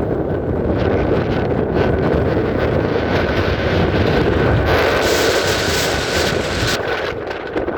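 Strong wind buffeting the microphone, with a faint steady high whine underneath. About five seconds in, a harsher gust lasts roughly two seconds.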